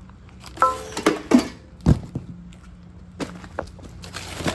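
Knocks and clatter of boxed car suspension parts being handled, with a brief metallic ring early on and a heavier knock at about two seconds in. A faint steady hum runs underneath.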